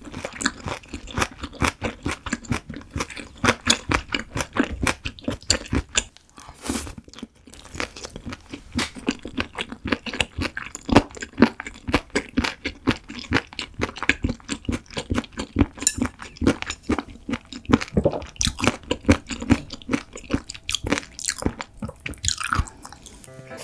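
Close-miked chewing of steamed stingray (gaori-jjim): the cartilage bones crunch and crackle between the teeth in a rapid run of crisp crunches, with a brief pause about six seconds in.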